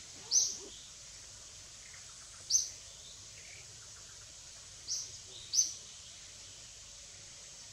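A bird calling four times, a couple of seconds apart, in short sharp high chirps that each drop slightly in pitch, over a steady outdoor background hiss.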